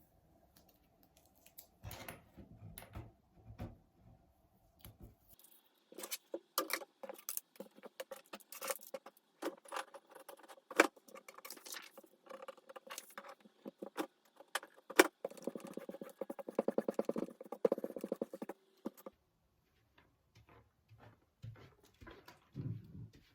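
Small hard objects being handled, clicking and rattling in quick irregular strokes, with a fast rattling run a little past the middle.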